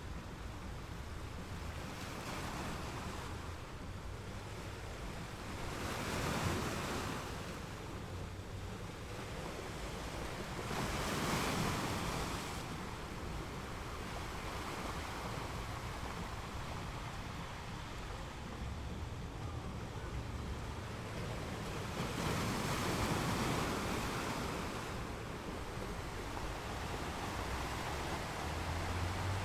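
Ocean surf on a beach: a steady wash of water, with three larger waves swelling and breaking several seconds apart.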